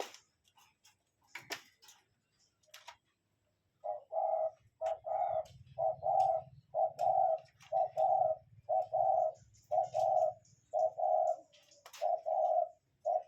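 A bird calling in a steady, evenly spaced series of short mid-pitched notes, about one and a half a second, starting about four seconds in, after a few faint clicks.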